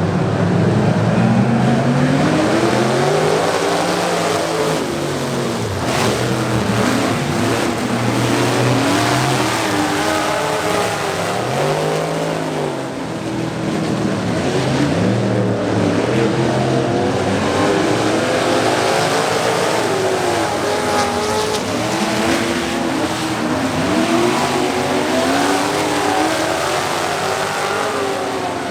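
Several race trucks' engines running hard together around an oval, revving up and easing off through the turns, in overlapping rising and falling sweeps of pitch as they pass.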